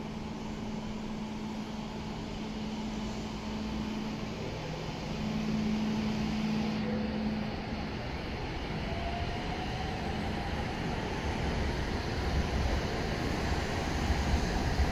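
N700-series Shinkansen train pulling out of the station and picking up speed: a steady low hum with a faint rising whine about halfway through, and a low rumble that grows louder toward the end as the cars roll past.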